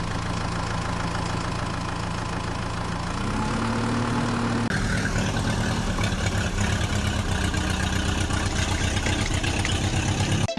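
A heavy vehicle's engine idling steadily, rising a little in pitch about three seconds in, then running harder with a rapid, even pulsing from about five seconds in.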